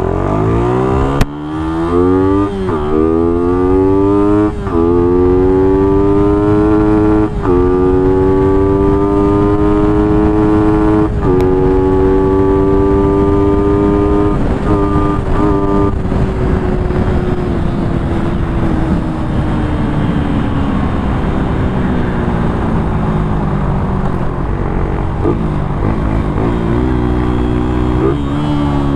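Suzuki Raider 150's single-cylinder four-stroke engine, on its stock muffler, accelerating hard through the gears: the pitch climbs, drops sharply at each of about five quick upshifts in the first eleven seconds, then holds near top speed. It slowly falls as the rider eases off and rises again near the end, with wind rushing over the helmet camera.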